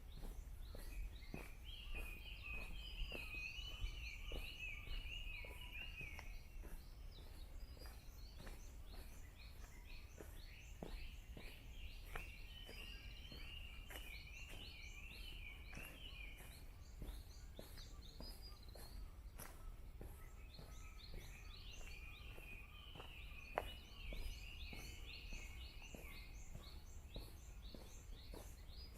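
A songbird singing three long chattering bouts of about five seconds each, with fainter high repeated bird notes and the tick of footsteps on a path.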